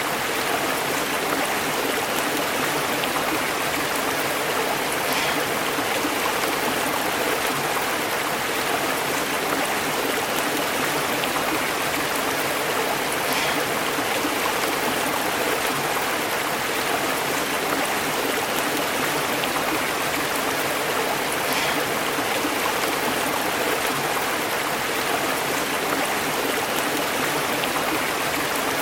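A stream flowing and burbling over rocks, a steady, even rush of water with small splashes here and there.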